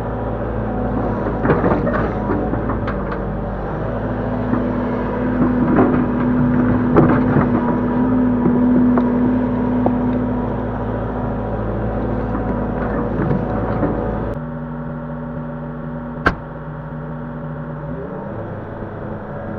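Link-Belt 145X3E hydraulic excavator running steadily, with scattered knocks and clanks from the bucket working the soil. About two-thirds in the sound changes abruptly, then there is one sharp click and the engine pitch rises near the end.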